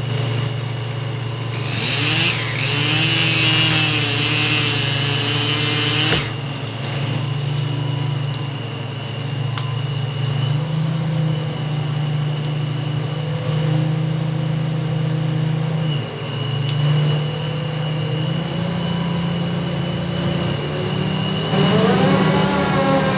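Heavy engines running: a steady deep engine throughout, a louder, higher-pitched burst about two to six seconds in, and an engine revving up near the end.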